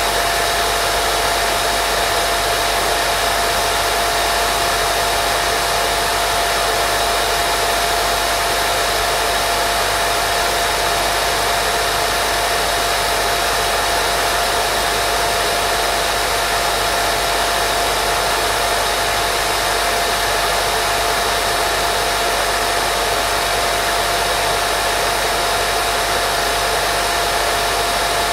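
Steady, unchanging white noise for baby sleep: a constant hiss with a steady whine-like tone running through it, much like a hair dryer.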